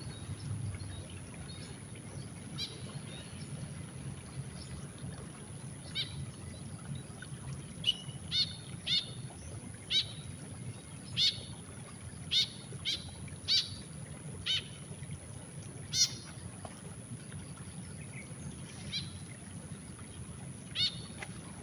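White-breasted woodswallow giving short, harsh calls, a dozen or so in a series that is densest in the middle, roughly one a second, over a low steady rumble.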